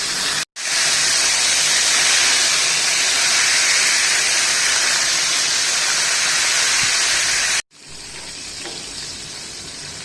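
Rice-flour-coated chicken fingers deep-frying in hot oil: a loud, steady sizzle. It breaks off suddenly twice, about half a second in and near eight seconds, and goes on quieter after the second break.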